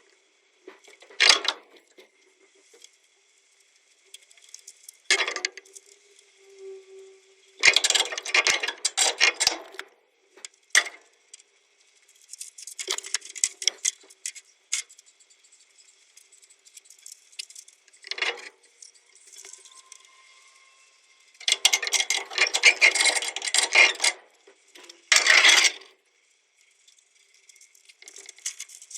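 Metal parts and tools clinking and rattling in irregular bursts with pauses between them, as hand work goes on at a truck gearbox.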